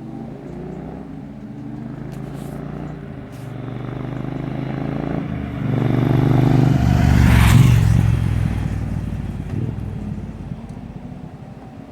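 Triumph T120 parallel-twin motorcycle engine running through its exhaust. It grows louder to a peak about seven or eight seconds in, then fades away.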